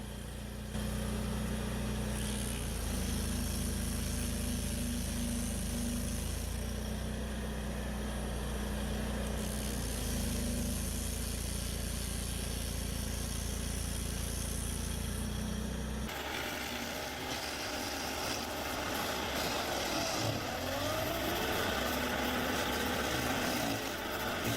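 Stump grinder engine running steadily. About sixteen seconds in, the sound cuts abruptly to a different, noisier and higher-pitched machine sound.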